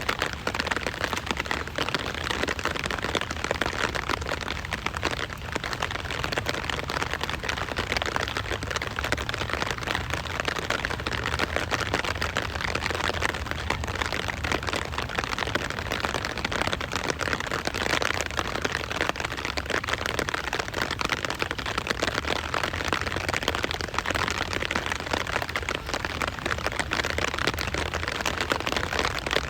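Steady rain falling, a dense even hiss of many small drop impacts.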